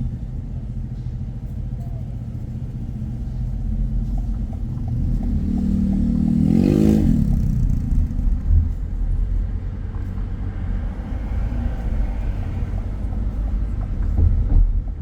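Steady low road and engine rumble of a car being driven, with an engine note that rises and then falls in pitch about seven seconds in.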